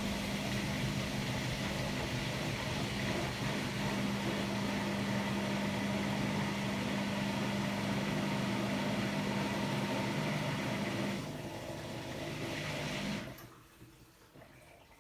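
Hotpoint-Ariston Aqualtis washer-dryer running with a steady mechanical hum. The hum stops about 11 seconds in, and the rest of the running sound cuts off about two seconds later, leaving faint drips.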